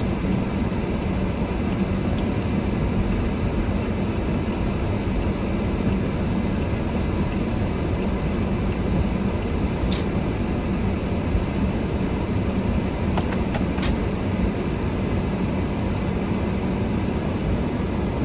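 Car driving at a steady pace: even engine and road noise with a low hum, and a couple of faint ticks about ten and fourteen seconds in.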